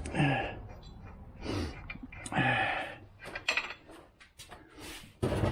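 A few short grunting vocal sounds, each falling in pitch, then a scatter of sharp metallic clicks and clinks from hand tools and parts during suspension work.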